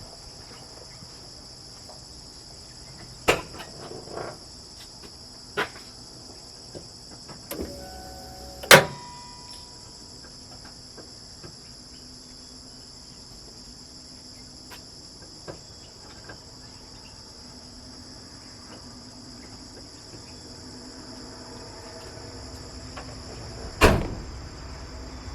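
Steady high chirring of crickets, broken by a few sharp knocks and clunks. The loudest comes about nine seconds in and another near the end.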